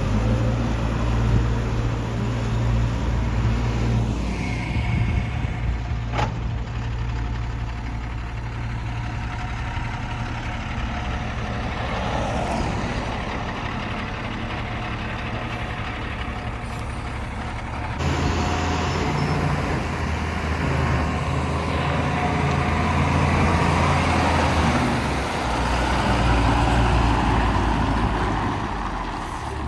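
Diesel engine of a JCB 3DX backhoe loader running under working load while digging and loading mud. It holds a steady low hum that changes pitch and level a few times, with an abrupt shift about two-thirds of the way through.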